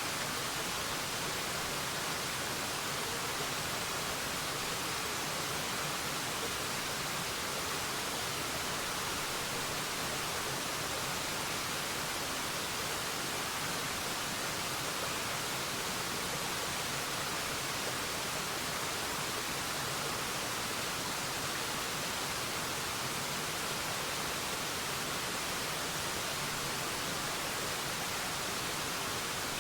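Forest waterfall: a steady rush of falling water, an even hiss strongest in the upper range.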